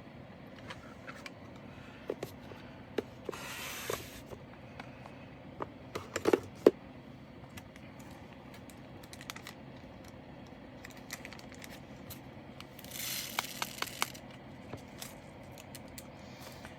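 Small plastic bags of diamond painting drills being handled: scattered clicks and taps, with two brief bursts of plastic rustling, one about three seconds in and one near thirteen seconds.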